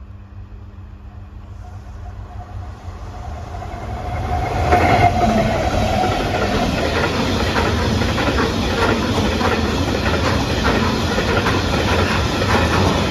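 A diesel-hauled freight train approaching, growing steadily louder over the first five seconds as the locomotive draws level, then its wagons passing close by, wheels clattering over the rail joints in a fast, even rhythm.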